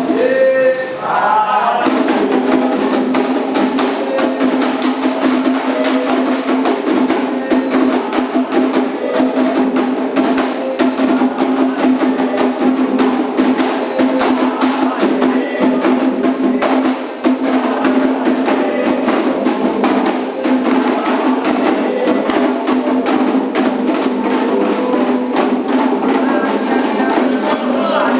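Candomblé ritual drumming: atabaque hand drums played in a fast, continuous rhythm with a struck bell or wood-block-like beat, with singing voices heard near the start and again near the end.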